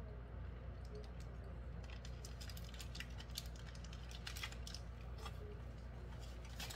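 A person chewing a mouthful of burger while handling its paper wrapper. Small wet mouth clicks and paper crinkles come in a cluster through the middle, over a faint steady low hum.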